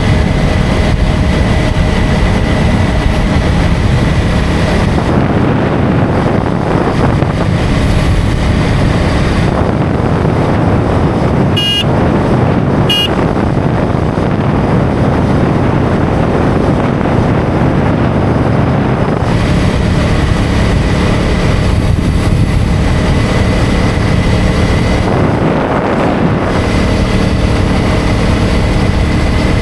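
KTM Duke 250's single-cylinder engine running at road speed, heard from the rider's position with steady wind rush over the microphone. Two short vehicle-horn beeps about a second apart near the middle.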